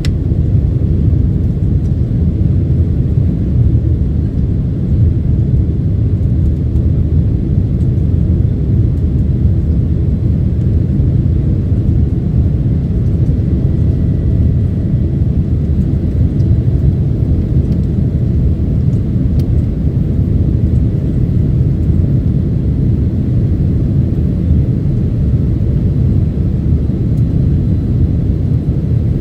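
Boeing 767-300ER airliner, a steady, unbroken low rumble of engines and airflow.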